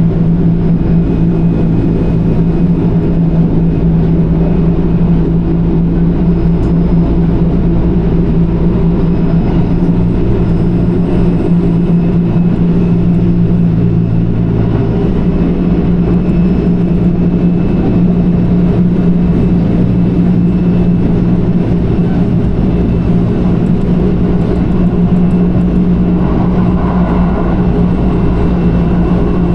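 Running noise of an electric express train heard inside the carriage: a steady rumble of wheels on rail with an even hum throughout.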